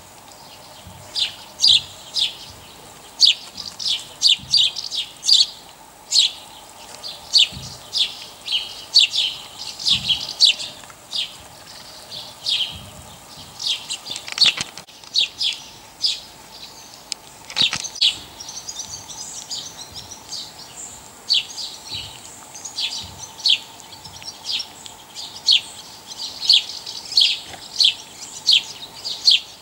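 Small birds chirping: short, high chirps in loose, irregular runs of several a second.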